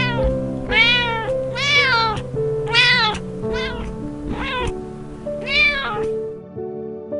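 Domestic cat meowing about six times, roughly once a second, each meow rising then falling in pitch. Calm background music with held notes plays underneath.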